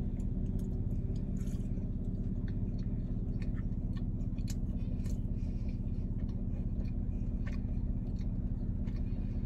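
Someone chewing and biting into food, a scatter of small crunches and clicks, over a steady low hum inside a car.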